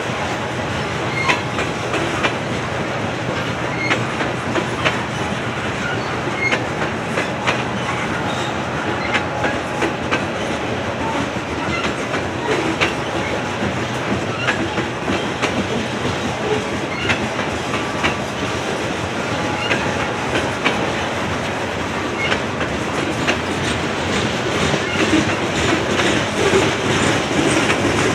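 Norfolk Southern coal train's cars rolling past, a steady rolling rumble with many clicks and clatters of the wheels on the rails.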